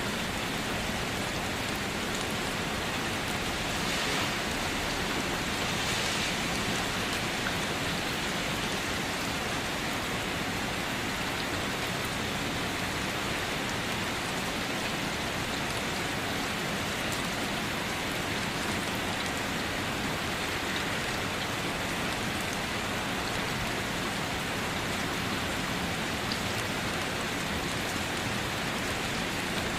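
Steady rain falling, an even wash of drops with slight swells about four and six seconds in.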